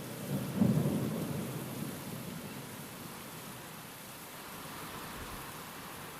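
A roll of thunder over steady rain: the rumble swells suddenly about half a second in and fades away over a couple of seconds, leaving the even hiss of the rain.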